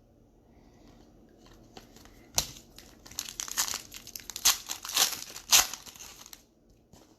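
Foil wrapper of a baseball-card pack crinkling and tearing as it is handled and opened, in a dense crackling run that starts a couple of seconds in and stops about a second before the end.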